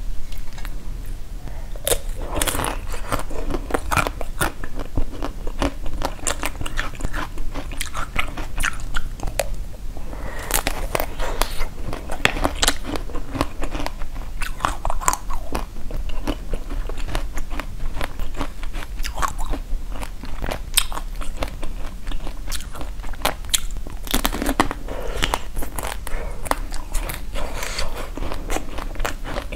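Close-miked crunching bites and chewing of a hard, coated, watermelon-slice-shaped treat: a steady run of sharp crackles that thickens from about two seconds in.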